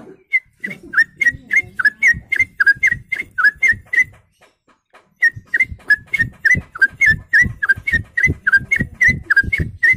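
A man imitating a bird call by mouth without any tool: short, sharp whistled chirps, some dipping in pitch, repeated about three times a second in two runs with a brief pause between them.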